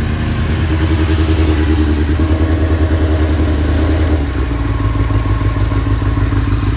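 Motorcycle engine idling while it warms up, running steadily; about four seconds in, the engine note steps up to a faster idle.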